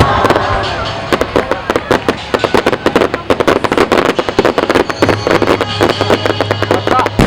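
Starmine fireworks barrage: a rapid, continuous run of shell bursts and crackling reports, several a second.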